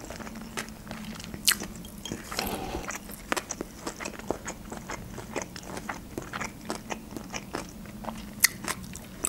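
A person chewing food with the mouth closed, close to the microphone: wet smacking and clicking mouth sounds in an irregular run, with a sharper click about a second and a half in and another near the end. A faint steady low hum sits underneath.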